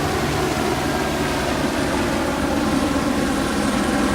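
A loud, steady mechanical drone with a low hum whose pitch shifts partway through.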